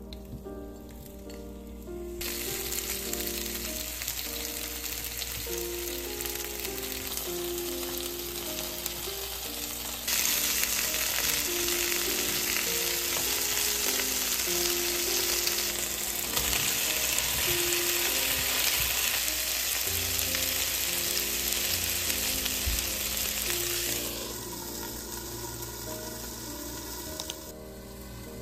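Cornstarch-coated chicken thigh pieces sizzling as they fry in oil. The sizzle starts about two seconds in, grows louder from about ten seconds and drops back near the end, with background music throughout.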